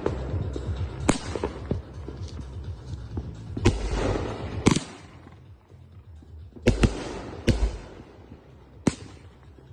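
Consumer aerial fireworks bursting in the air: about six sharp bangs at uneven intervals, with crackle and hiss between them.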